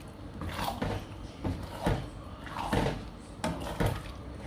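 Spatula scraping and knocking against a wok as thick chili paste is stirred, about six irregular strokes.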